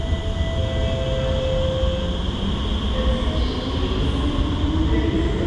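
MRT train running on the East West Line, with a low steady rumble and a whine that rises in pitch over the last couple of seconds as the train picks up speed.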